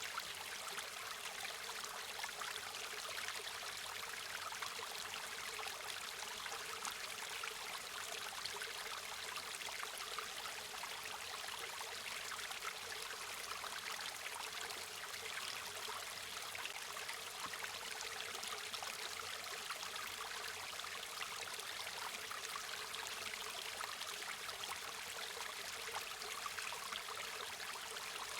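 A river or stream flowing steadily over stones, a continuous rushing and trickling of water with no breaks.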